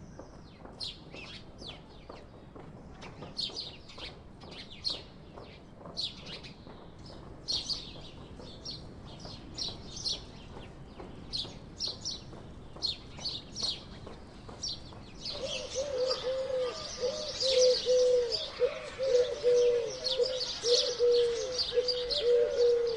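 House sparrows chirping: separate short chirps at first, then about two-thirds of the way in a louder, denser chatter of many chirps at once, with a steady wavering low tone underneath.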